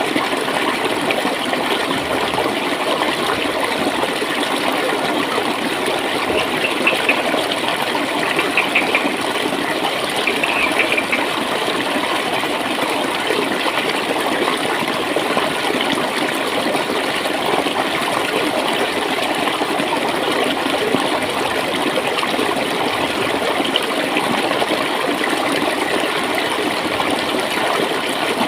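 Shallow stream of water flowing and gurgling steadily, with a few brief brighter splashes about a quarter of the way in.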